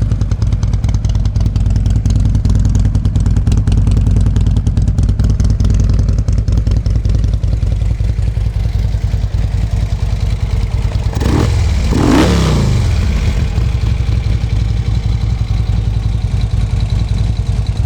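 Harley-Davidson Road Glide Custom's 96-cubic-inch V-twin with upgraded exhaust idling, almost with a little bit of a lope. The throttle is blipped once about eleven seconds in, the note rising and falling back to idle.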